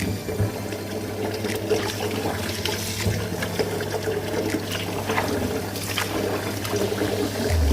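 Water trickling and splashing while raw chicken is rinsed by hand, with scattered small knocks of handling.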